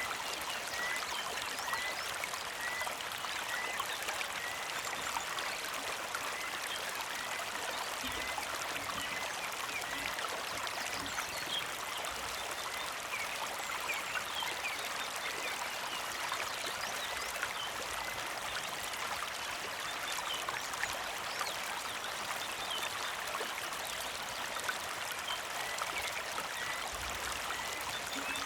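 Shallow creek flowing and trickling steadily over rocks. Over it, a bird repeats a short high chirp about twice a second, through the first third and again near the end.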